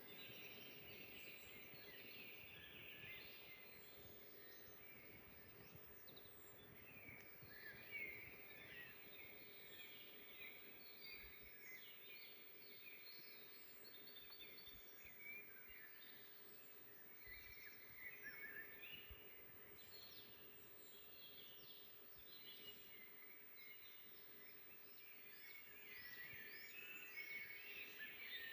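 Faint forest birdsong: several birds chirping and trilling throughout, over a low steady hum.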